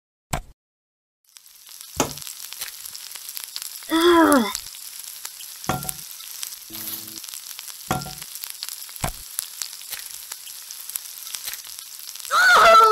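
Food sizzling and crackling in a hot frying pan, starting about a second in, with a few sharp clicks. A short, loud squeal falls in pitch about four seconds in and again near the end.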